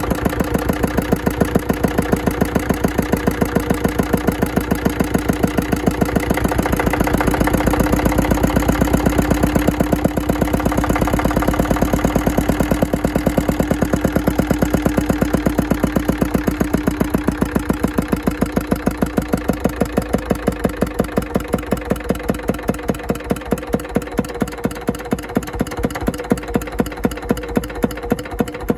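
Andoria S15 single-cylinder diesel engine running, each firing stroke a distinct beat. The beat is quickest in the first half, then slows steadily toward a slow idle.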